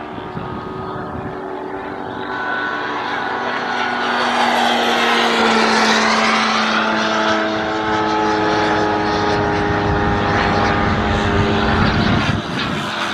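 RC model Corsair's Moki radial engine running in flight. Its steady propeller drone grows louder a few seconds in, peaks with a rushing pass about halfway through, stays loud, then drops off near the end.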